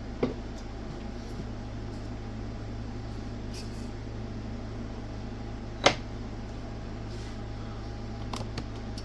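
Steady low electrical hum from the bench equipment, with a small knock just after the start, one sharp click about six seconds in, and a few faint ticks near the end as things are handled on the bench.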